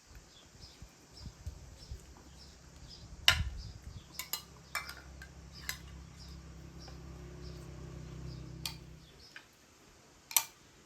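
Cutlery clinking against dishes in a series of sharp, irregular clicks. A low steady hum runs under them from a few seconds in until near the end.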